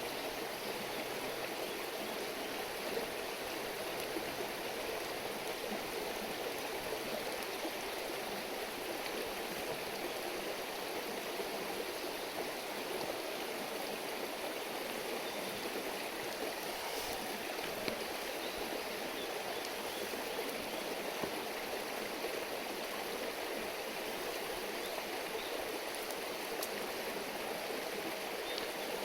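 A river stream babbling steadily in an even rush of water, with a few faint clicks.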